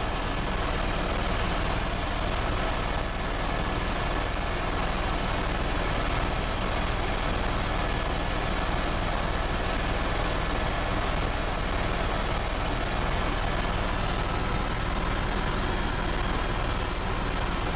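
Helicopter running steadily: a dense, even mechanical noise with a faint steady whine, unchanging throughout.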